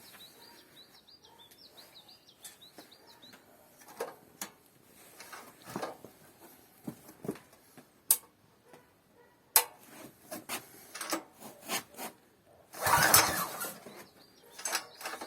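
Scattered clicks and knocks of handling around a Loncin 15 hp engine, with birds chirping at first. About 13 seconds in, the engine is cranked for a second or so and does not catch: a failed first start attempt.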